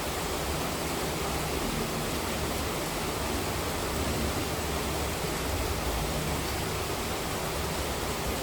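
Heavy rain falling steadily, a dense even hiss with no separate drops or pauses.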